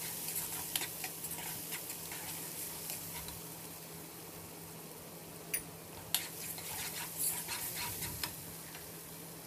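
Onion-tomato masala sizzling in hot oil in a nonstick kadai while a plastic spatula stirs it, with scattered scrapes and taps against the pan, a few louder ones past the middle. The masala is being fried with its spices (bhunao stage). A steady low hum runs underneath.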